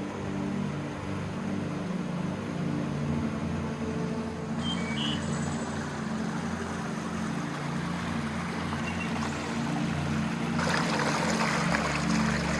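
Rushing creek water that gets louder and brighter about two thirds of the way through, with a steady low hum of sustained tones underneath.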